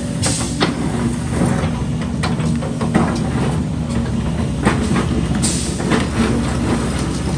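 Heavy diesel machinery running steadily under load, with repeated knocks and clanks of concrete rubble being handled. There are a few short hisses, one about five and a half seconds in.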